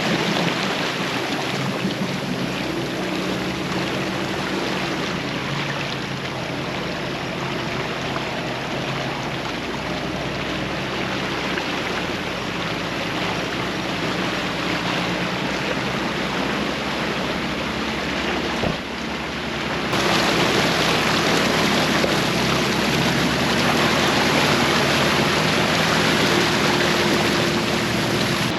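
An off-road vehicle driving through a flooded creek crossing: the engine runs under a steady rush and slosh of water. About two-thirds of the way through, the sound abruptly becomes louder and hissier.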